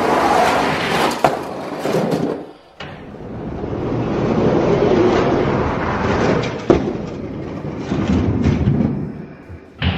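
Die-cast toy monster trucks rolling down a racetrack: a rumbling noise that swells and fades, with a few sharp knocks.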